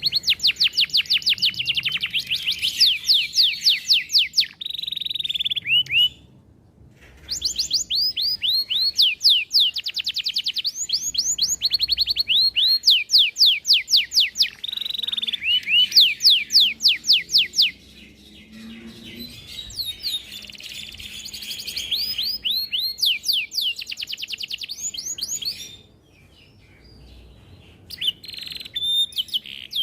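Domestic canary singing a long song of rapid repeated notes and trills, one phrase after another, with a brief pause about six seconds in and another near the end.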